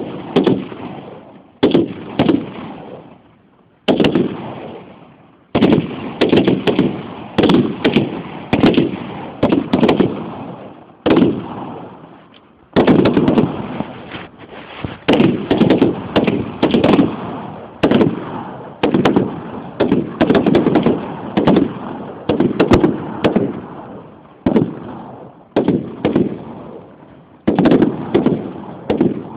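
Heckler & Koch G3 battle rifles, chambered in 7.62×51mm, firing in a ragged overlapping volley. Single shots and quick strings come one after another, with a few brief pauses, and each crack trails off in a long echo.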